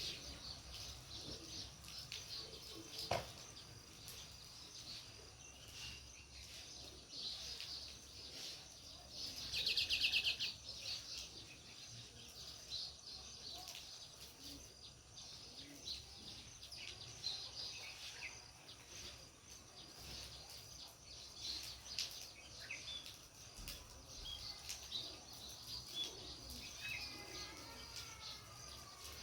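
House sparrows chirping: many short chirps scattered throughout, with a louder rapid run of chirps about ten seconds in. A single sharp click sounds about three seconds in.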